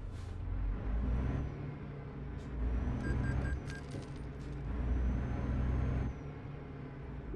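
Truck engine heard from inside the cab, a low rumble that swells three times and drops back in between. A short run of faint beeps about three seconds in.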